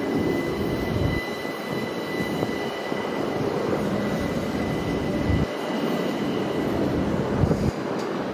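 Electric passenger train running through the station with a steady rumble, and a thin high whine in the first few seconds that fades away.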